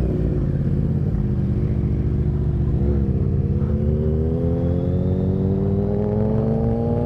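Yamaha FZ-07's parallel-twin motorcycle engine under way, holding a steady speed for about three seconds, then pulling in one gear with the pitch rising slowly and evenly as the bike accelerates.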